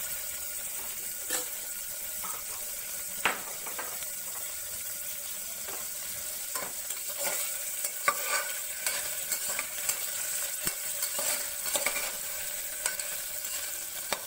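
Paneer cubes sizzling as they shallow-fry in ghee in a pressure cooker: a steady hiss, with a steel skimmer spoon clinking and scraping against the pot now and then as the cubes are stirred.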